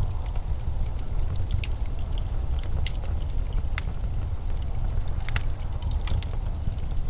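Blizzard wind blowing with a steady deep rumble, with scattered small sharp crackles and clicks over it.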